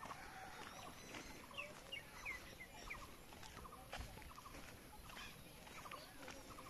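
Faint bird calls: short rising chirps and quick little runs of repeated notes, over quiet outdoor background.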